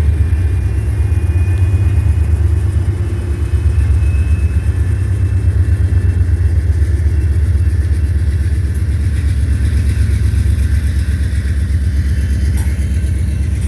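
Diesel freight locomotive engine running close by, a steady low rumble with an even rapid throb, and a single short click near the end.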